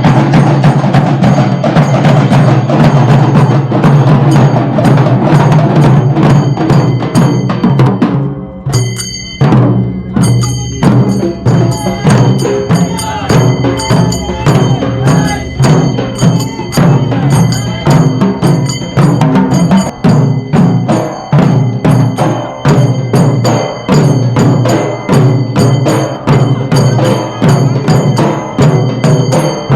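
Loud rhythmic drumming and percussion, the strikes coming thick and even, with a short break about eight or nine seconds in.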